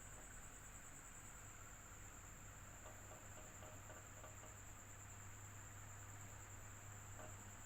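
Electric fan running steadily and faintly, a low motor hum under an even airy hiss with a constant high-pitched whine.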